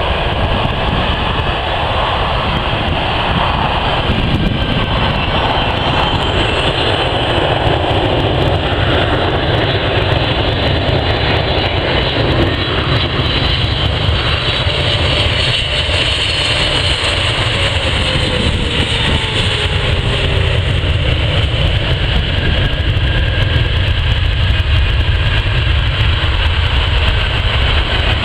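Jet airliner engine noise, loud and steady, with a faint falling tone about two-thirds of the way through as an aircraft passes.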